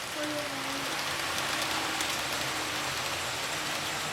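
HO-scale model trains running on the layout: an even, steady rolling noise of small wheels on track.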